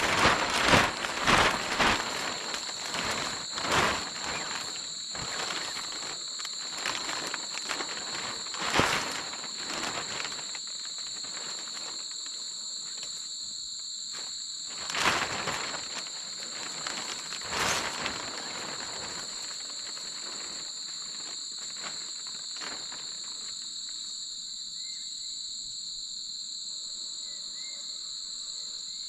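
Insects calling steadily in two high, unbroken shrill tones, with irregular rustling, scraping and knocks of someone moving and handling things, heaviest over the first few seconds and again about 15 and 18 seconds in. A few faint short chirps near the end.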